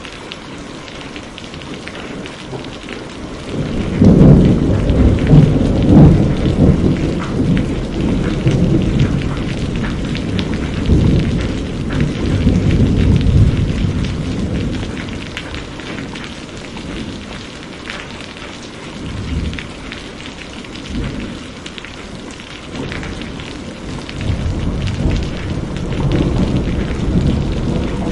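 Steady rain with thunder. A long rolling rumble builds about four seconds in and fades over roughly ten seconds, and a second rumble rises near the end.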